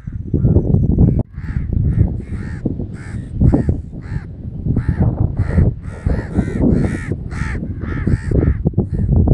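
Harsh bird calls repeated quickly, about three a second, from about a second in until near the end, over a low rumble of wind on the microphone.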